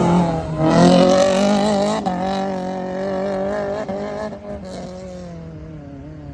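Race car's engine revving hard as the car drives off, its pitch rising and dipping with the throttle, then fading over the last couple of seconds as it pulls away.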